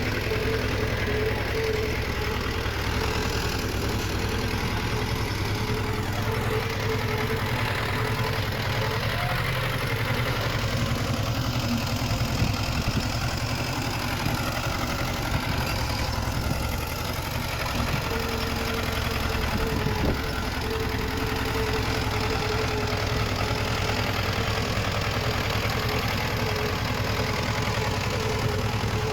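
Diesel engine of heavy earthmoving machinery running steadily, with a thin whine above the rumble that drops away for several seconds midway.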